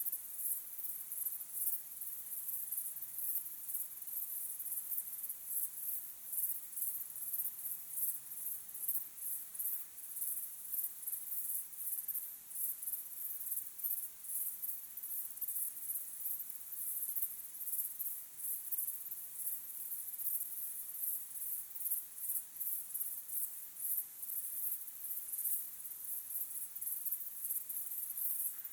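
Chorus of crickets chirping steadily in a dense, high-pitched pulsing trill.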